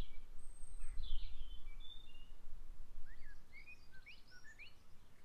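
Small birds chirping in short quick rising and falling chirps, a cluster about a second in and another about three seconds in, over a low rumble that fades after about two seconds.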